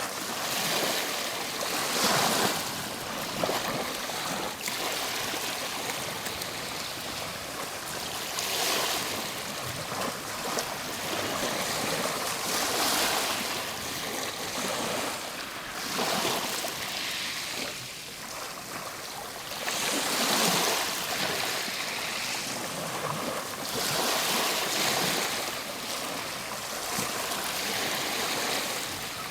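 Ocean waves washing onto a shore, a continuous rush of surf that swells every few seconds as each wave breaks.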